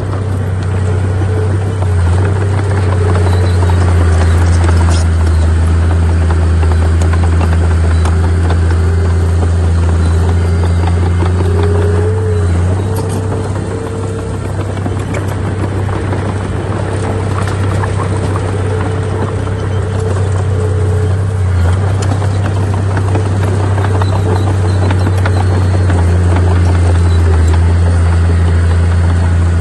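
Heavy bulldozer diesel engine running steadily under load with a strong low drone, its note dipping briefly a few times, over scattered clanks and knocks.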